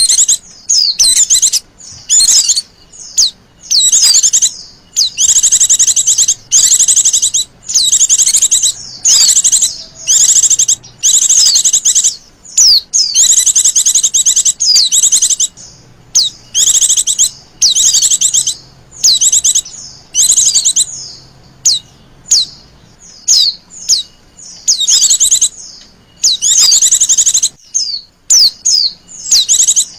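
Female white-eye (Zosterops) calling in a long run of high, rapidly warbled bursts, about one a second with short gaps between. This is the female call played to lure male white-eyes into singing.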